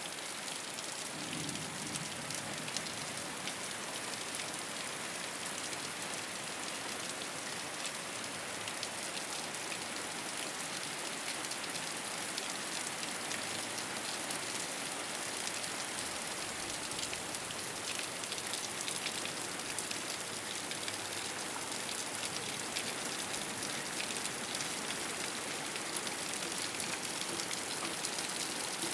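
Steady rain falling on a rooftop, a continuous hiss of drops pattering on the surface.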